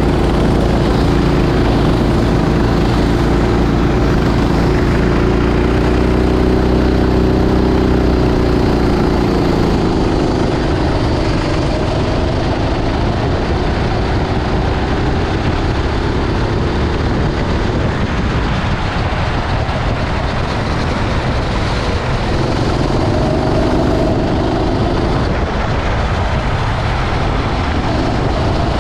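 Racing kart engine running hard, its pitch rising and falling as the throttle is opened and lifted through the corners, over a steady rushing noise.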